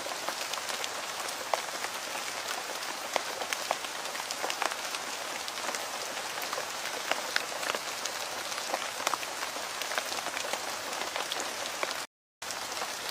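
Steady rain, an even hiss with many separate drops ticking through it. It cuts out completely for about a quarter of a second near the end, then resumes.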